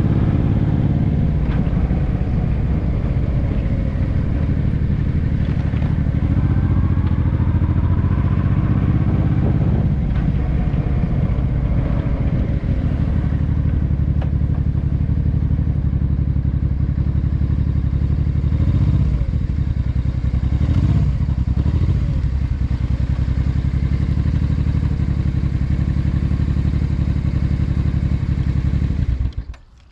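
Honda NT650V Deauville's V-twin engine running through an aftermarket Dominator exhaust, a steady, loud note with a few brief changes in pitch. The sound cuts off suddenly near the end.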